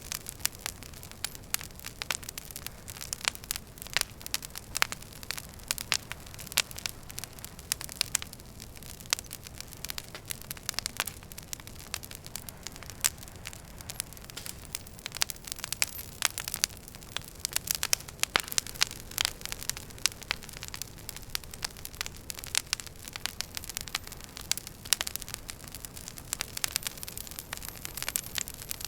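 Wood fire burning in a fireplace, crackling with irregular sharp pops and snaps over a low, steady rumble of flame.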